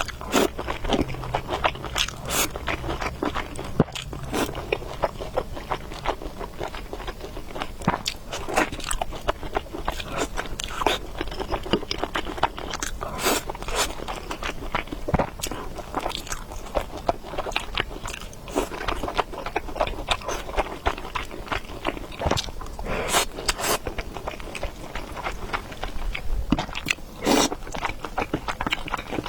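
Close-up eating sounds: mouth chewing and biting with wet smacks and crunches, irregular and continuous.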